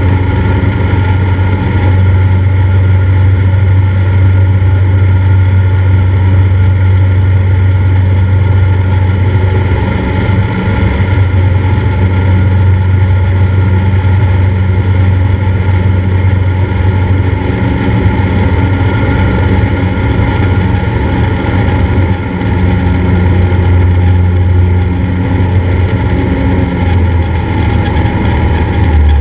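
Cessna 172's piston engine and propeller running steadily at an even pitch, a loud low hum.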